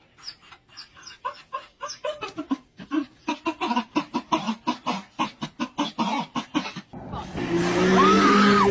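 A rapid series of short animal calls, about three or four a second, that stops about seven seconds in. Near the end a different sound starts: a steady tone with gliding pitches over it.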